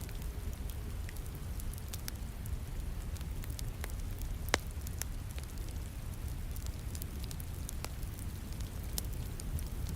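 Wood fire crackling with scattered sharp pops, the loudest about four and a half seconds in, over a steady hiss and low rumble of falling rain.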